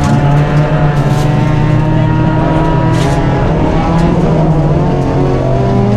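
Rally car engine running hard at steady high revs on a gravel stage, heard from inside the cabin. Two short bursts of hiss come about one and three seconds in.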